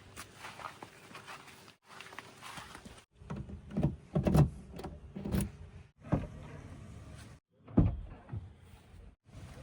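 JCB 3DX backhoe loader at work: irregular heavy thuds and knocks, loudest about four seconds in and again near eight seconds, broken by a few short silent gaps.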